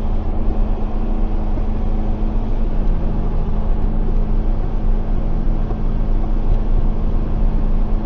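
Tractor engine running steadily under load, a constant low drone with a steady hum.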